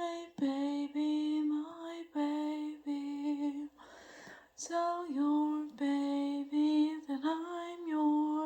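A woman singing unaccompanied, wordless held notes in short phrases at a steady, fairly low pitch, with a breath about four seconds in.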